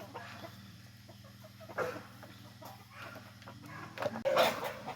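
Chickens clucking quietly, with a few short calls, then louder near the end.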